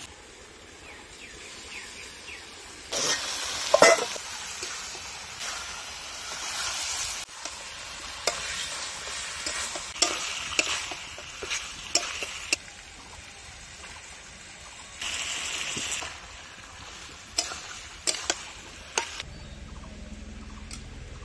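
Raw chicken pieces hitting hot oil and masala in a kadai, with a loud sizzle about three seconds in that comes back in waves. A metal spatula scrapes and knocks against the pan as the chicken is stirred and fried.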